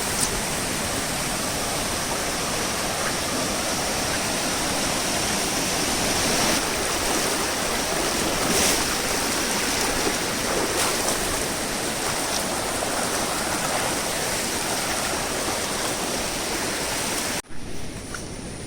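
Steady rush of fast-flowing, rain-swollen monsoon water. The rush drops sharply to a quieter level near the end.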